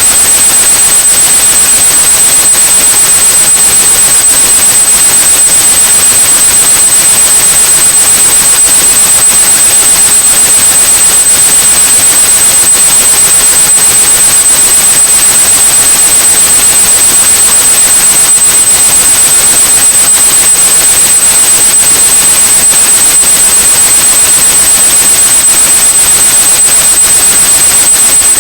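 Synthetic white noise, a loud steady hiss, with a continuous high pure tone at about 8100 Hz sounding over it: an electronic tinnitus-masking signal.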